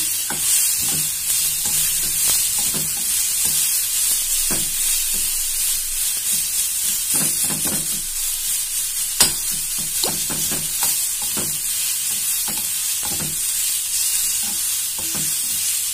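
Shallots, garlic and tomatoes sizzling in hot oil in a kadai, sautéed for a masala base, while a spatula scrapes and knocks against the pan in repeated strokes; one sharper clack about nine seconds in.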